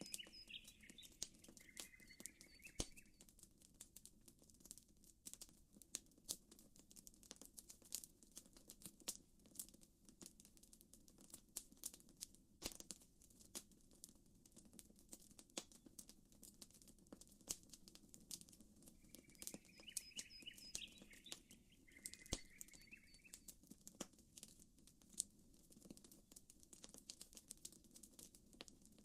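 Campfire crackling, with frequent sharp pops and snaps over a low steady background. Short chirping bird calls come in two brief bursts near the start and again about two-thirds of the way through.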